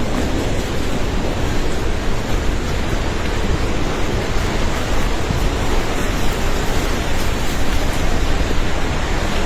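Swollen river in flash flood: a loud, steady rush of floodwater.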